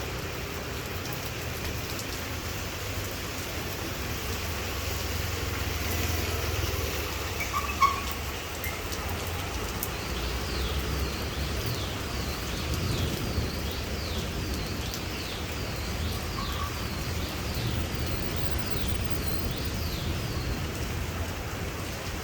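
Heavy rain pouring down steadily, with a low rumble underneath. There is a single sharp knock about eight seconds in, and from about ten seconds in a quick high chirping repeats for some ten seconds.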